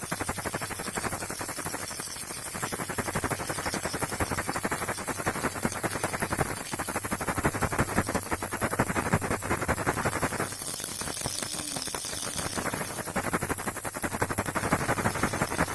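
Baby rattle shaken without pause: a dense, rapid clatter of small beads against the plastic shell, with a steady hiss underneath.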